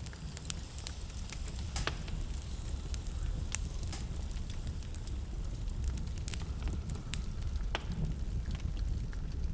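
Wood fire burning in a fireplace: a steady low rumble of flames with irregular crackles and several sharper pops.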